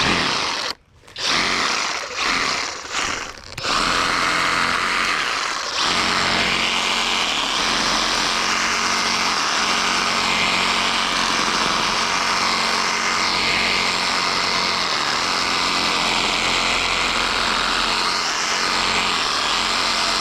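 Skil cordless reciprocating saw running in a few short trigger bursts, then steadily from about four seconds in as it cuts through small tree branches.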